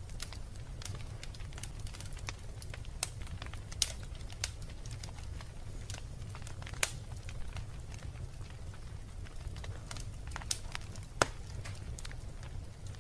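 Wood fire burning in a fireplace: irregular crackling with a few sharper, louder pops over a steady low rumble of the flames.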